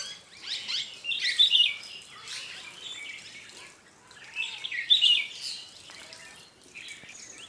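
Bulbuls and other small birds chirping and calling in quick overlapping bursts, loudest about one and a half and five seconds in.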